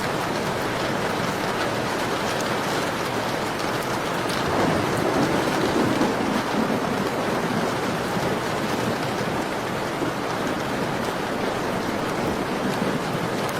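Steady rain pattering on a window pane. A low swell rises and fades between about four and seven seconds in.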